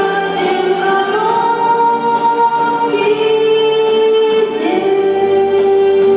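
Two women singing a song as a duet over a musical accompaniment, holding long sustained notes that step up and down in pitch.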